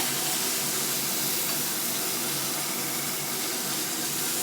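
Chicken wings sizzling on a grill, a steady hiss.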